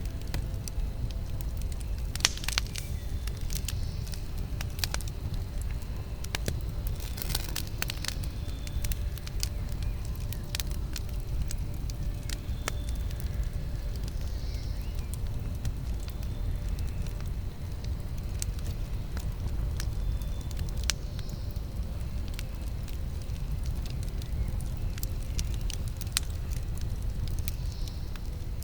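Campfire burning: scattered sharp crackles and pops over a steady low rumble, with denser bursts of crackling about two and seven seconds in.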